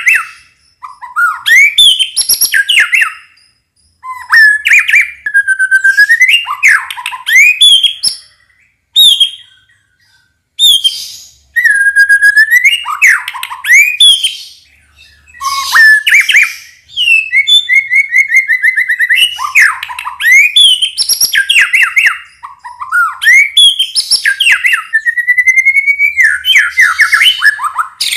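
White-rumped shama (murai batu) singing in full song: loud, varied phrases of clear whistles, rapid trills and sliding notes, broken by short pauses. Near the end comes a long run of quick notes gliding upward.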